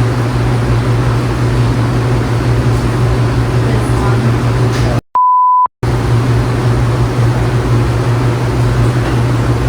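A steady, loud, low hum and rush runs throughout. About five seconds in, it is cut out for under a second and replaced by a half-second 1 kHz censor bleep, a pure steady tone, after which the hum resumes.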